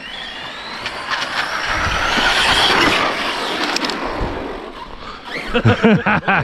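Brushless electric RC truck running hard, its motor whine rising over tyre noise. It ends in a few short, loud bursts of throttle near the end.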